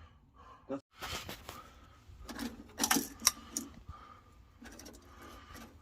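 Scattered light clicks, knocks and small metallic rattles of hand-handled parts and tools, as a boiler's flue overheat stat is worked on.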